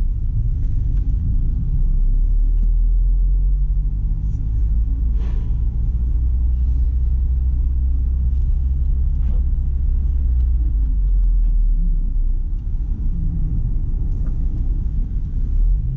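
1997 Mazda Miata's 1.8-litre four-cylinder engine running while the car is driven slowly on snow, a steady low rumble whose engine note shifts about four seconds in and again near eleven seconds, with a few faint clicks.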